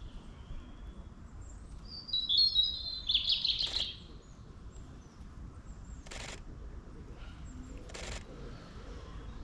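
A European robin singing a short, high, warbling phrase about two seconds in. A few sharp clicks follow, one at the end of the phrase and two more later.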